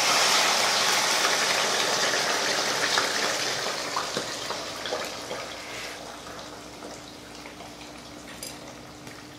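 Wet boiled ada (rice flakes) sizzling as it is tipped into hot ghee in a kadai. A loud hiss with scattered small pops dies down slowly over several seconds.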